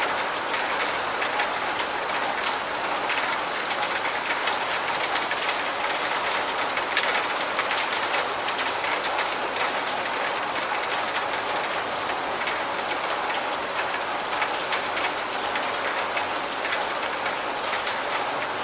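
Steady rain, with many close drops ticking irregularly.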